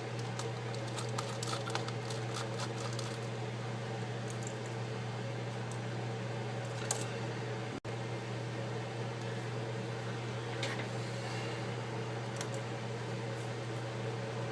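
A steady low hum, with a few faint small clicks of hand tools working at a tablet's battery connector.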